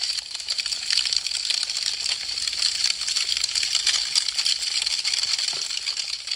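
Wood fire crackling: a dense, steady stream of small sharp pops and snaps from burning branches.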